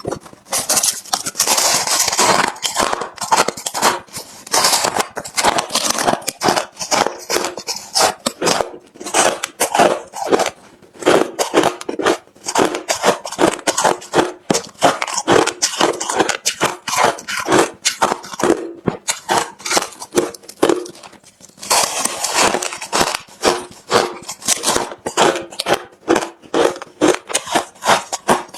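Close-miked chewing of hard, refrozen crushed ice: rapid, continuous crunching. The crunches come thickest near the start and again about two-thirds of the way through, where fresh mouthfuls are bitten.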